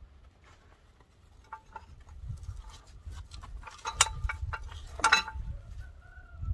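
Irregular clicks and knocks from working on a skid steer's track and the tensioning strap that pulls its ends together. The sharpest knocks come about four and five seconds in.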